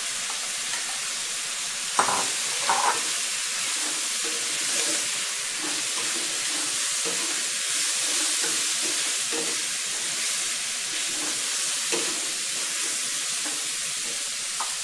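Cabbage, carrot, pork and shrimp sizzling steadily in hot oil in a non-stick wok as they are stirred with a wooden spatula. A few sharp knocks sound over it: two close together about two seconds in and one later on.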